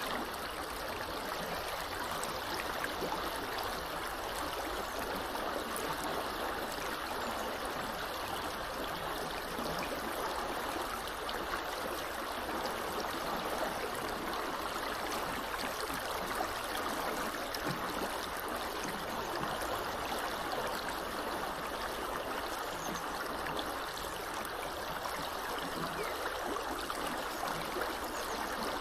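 Small river flowing steadily: an even, constant rush of running water.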